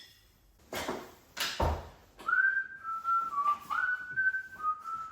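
A person whistling a short tune: a series of clear held notes that step up and down in pitch, starting about two seconds in. Before it come two brief noises.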